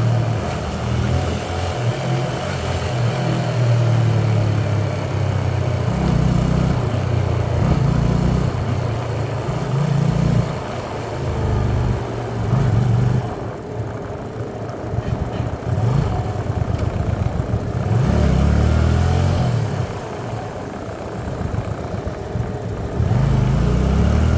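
Hyosung Aquila 125 motorcycle's small V-twin engine heard from the bike while riding, the throttle opening and closing, with the revs climbing twice in the second half.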